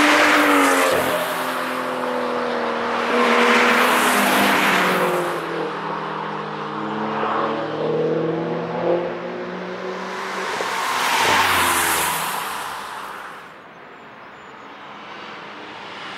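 Cars at speed passing one after another, each engine tone swelling as it approaches and dropping in pitch as it goes by. Three or four pass in turn, with a quieter lull near the end before the next car comes in.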